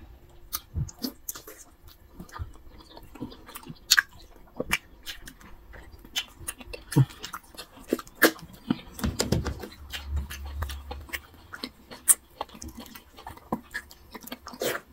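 Close-up eating sounds of two people chewing fufu and soup by hand: irregular wet mouth smacks and clicks.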